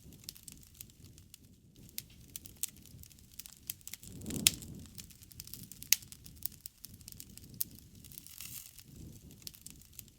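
Wood campfire crackling, with many irregular sharp pops over a low rumble; the loudest pops come about four and a half and six seconds in.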